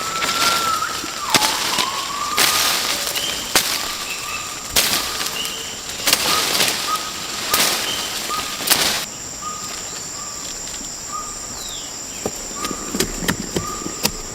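Rainforest ambience: a bird calling again and again in short whistled notes over a steady high insect drone. Several sharp knocks come in the first two-thirds and stop about nine seconds in.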